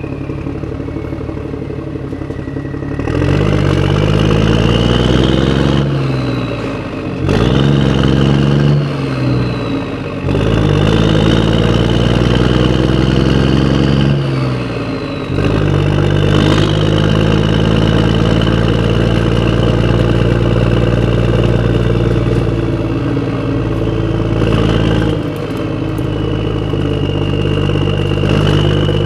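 Motor of a disk-spinning toy running, speeding up and slowing down several times in the first half, then running at a steady speed.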